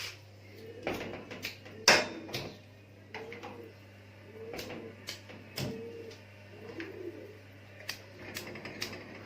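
Repeated sharp clicks of a hand lighter being struck again and again to light a gas stove burner, the loudest about two seconds in. A pigeon coos over and over in the background.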